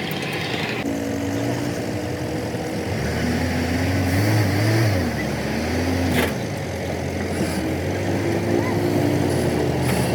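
A motor vehicle engine running, its pitch rising and falling for a few seconds, with a single sharp knock about six seconds in.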